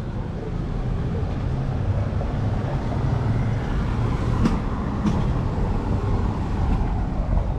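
Bernina Express train running along the track: a steady low rumble of wheels on rail, with two sharp clicks a little past the middle.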